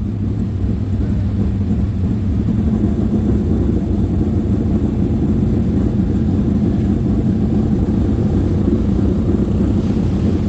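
Dirt-track sprint car engine running steadily, a loud constant drone with no rise or fall in pitch.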